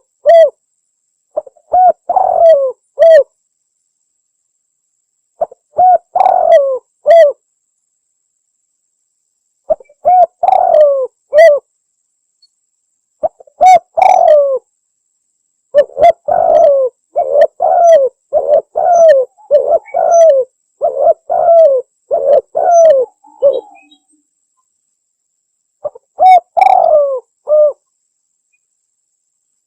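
Spotted dove (tekukur) cooing in loud phrases of a few low coos each, separated by pauses, with a long run of many quick coos in the middle. A lure call for attracting wild doves.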